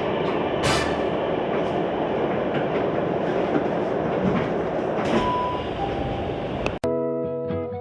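Tokyu 7000-series commuter train running, heard from inside the car: a steady rumble with occasional clicks of the wheels over the track. Nearly seven seconds in it cuts off sharply and guitar music starts.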